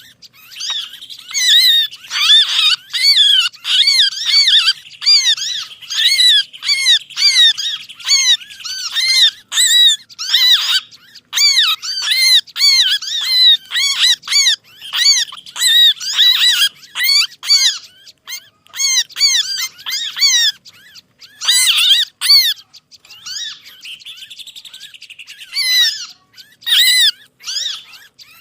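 Dense chorus of small songbirds giving agitated, distressed calls: rapid, overlapping arching chirps over a steady buzzing chatter, thinning briefly a few times. It is a bird-lure call mix of small birds in alarm and distress, meant to draw other small birds close.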